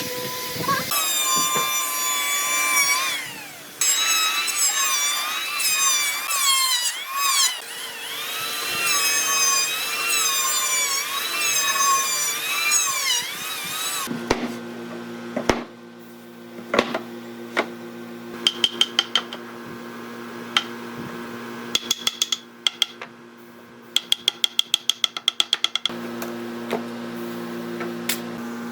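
A power tool runs under changing load for about fourteen seconds, its pitch rising and falling, with two brief drops. It then gives way to a steady low hum broken by quick runs of sharp clicks.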